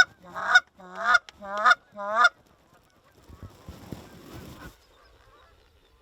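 Hand-held goose call blown close by: a run of loud, evenly repeated honks, about two a second, calling to an incoming flock of geese, stopping a little over two seconds in. A fainter, noisier stretch follows about a second later.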